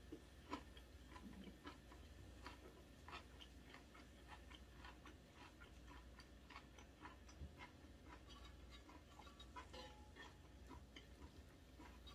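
Faint, irregular soft clicks and smacks of a person chewing aged kimchi with the mouth closed, over a low hum.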